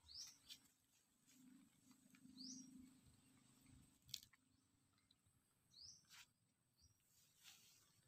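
Faint bird chirps: three short rising notes spaced a few seconds apart, with a few soft clicks between them.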